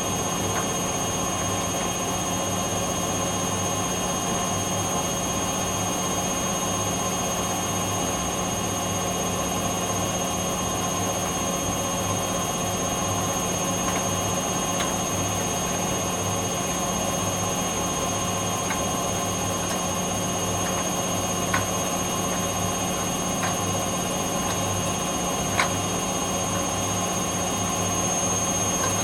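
Hoover Dynamic Next DXOC58AC3 washer-dryer on a fast spin of about 1,000 rpm: a steady motor and drum hum under a constant high-pitched screech from the motor bearing, with a few faint ticks in the second half. The owner puts the screech down to the motor bearing.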